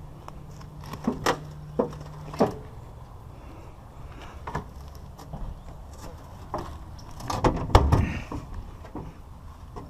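Scrap being handled and loaded: three sharp knocks in the first few seconds, then scattered clicks and a heavier cluster of clunks and thuds about seven and a half seconds in. A low steady hum stops at the third knock.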